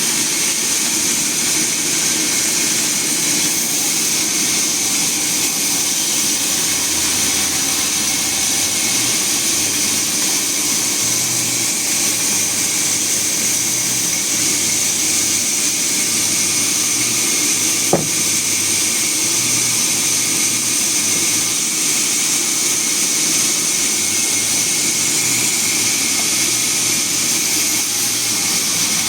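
Sawmill machinery running steadily, a constant loud whirring hiss with a low hum underneath, and a single sharp click about two-thirds of the way through.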